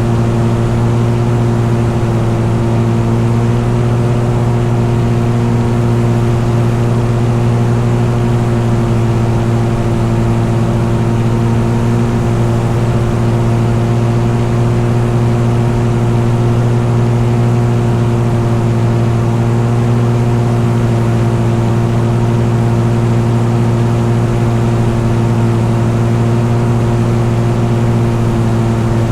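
Engine running at a constant, unchanging speed, a steady low-pitched hum.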